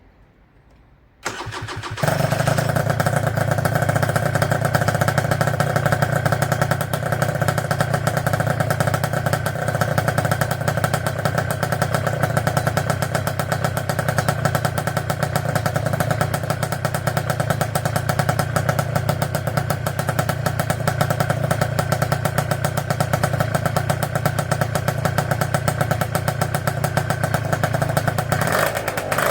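Gilera Runner 183 SP's two-stroke scooter engine starting about a second in, then running steadily at idle with a fast, even exhaust beat.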